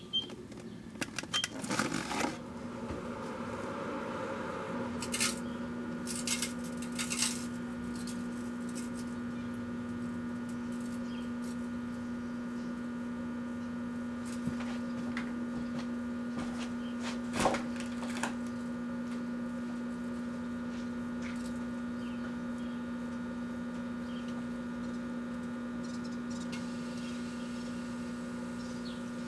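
Kenmore microwave oven switched on and running with a steady hum, after a few clicks as it is started. A few sharp clicks sound during the run, the loudest about 17 seconds in.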